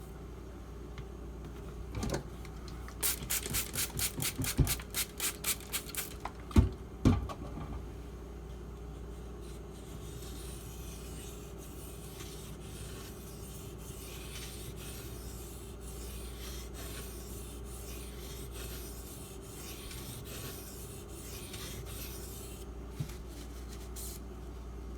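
Spyderco Salt's H1 steel blade stroked across a 6000-grit water stone: first a quick run of sharp strokes at about four a second, two knocks, then lighter, steady scraping strokes.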